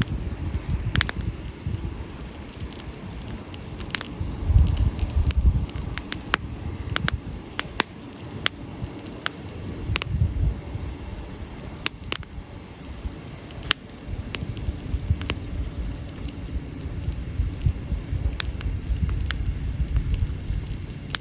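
Wood campfire burning, with irregular sharp crackles and pops over a low, uneven rumble that swells a couple of times.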